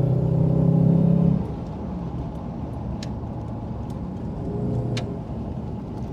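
Jaguar XK8's V8 engine and Adamesh sports exhaust pulling hard at steady revs, heard from inside the cabin. About a second and a half in, the throttle is lifted and the note drops suddenly to a lower, quieter rumble, with two faint clicks later on.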